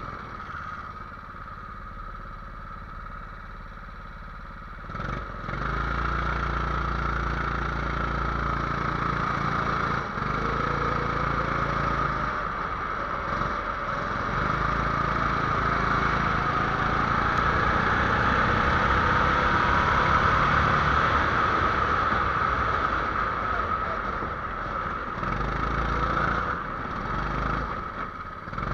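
Small 270cc engine starting up about five seconds in, then running steadily at a low idle with slight changes in speed.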